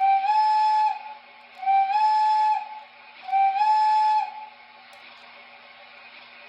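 Three blasts of an O scale model steam locomotive's electronic sound-system whistle, each just under a second long, with a slight step up in pitch at the start of each, over a faint steady hum.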